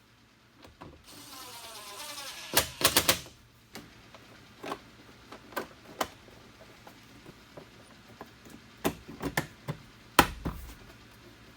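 Irregular clicks, clacks and knocks of hand tools and door trim parts being handled, with a brief rasping rattle about a second in and a sharp knock near the end.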